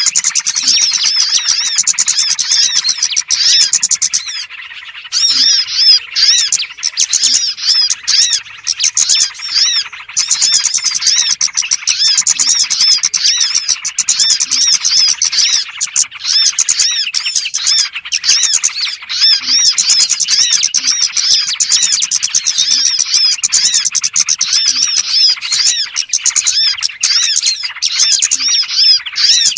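Recorded lure call of small birds: a dense, continuous chatter of rapid high chirps and trills from many small birds, used as a decoy sound to draw small wild birds in. There is a brief lull about four seconds in.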